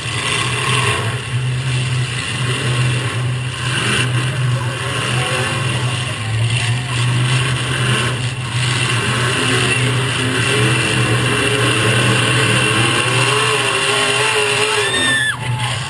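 Demolition derby cars' engines running and revving in the arena, a steady loud din of several engines rising and falling in pitch, with a short high squeal near the end.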